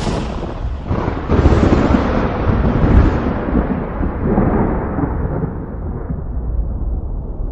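Thunder: two sharp cracks about a second apart, then a long rolling rumble that slowly dies away.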